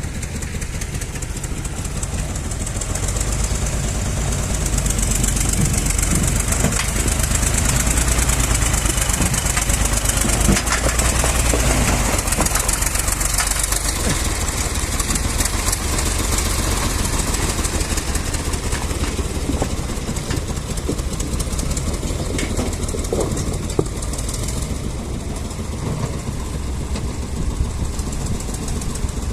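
Tractor engine running steadily while the tractor pushes a leveling blade over the ground, getting somewhat louder a few seconds in and then holding steady.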